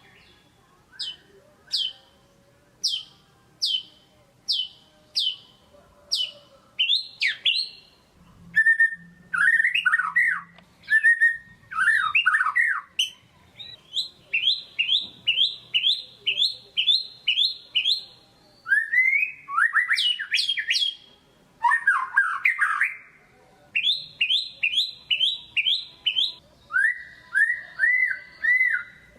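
White-rumped shama (murai batu) singing a loud, varied song. It opens with a run of sharp down-slurred whistles, then breaks into warbled phrases and fast runs of repeated high notes, with brief gaps between phrases.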